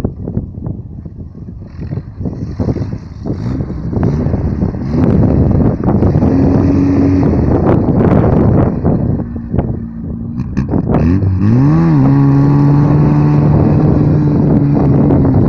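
Vehicle engine revving: low and uneven at first, then climbing to a steady high pitch. Past the middle the revs rise and drop quickly, then hold high and steady.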